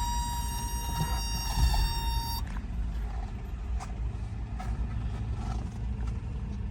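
1987 Toyota pickup's engine idling with a low, steady rumble, with a steady high-pitched warning buzzer from the cab that cuts off suddenly about two and a half seconds in.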